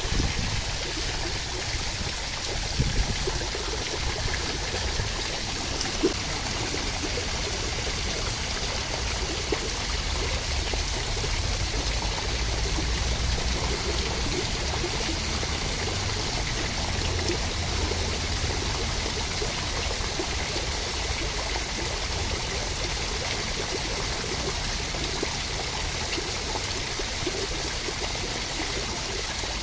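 Steady rushing water, an even hiss with a low rumble underneath, with a few light ticks in the first few seconds.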